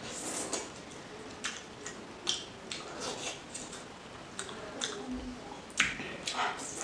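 Close-up eating sounds: chewing and wet lip smacks on a mouthful of rice and fish curry eaten by hand, with fingers squishing the rice together. Irregular short smacking clicks.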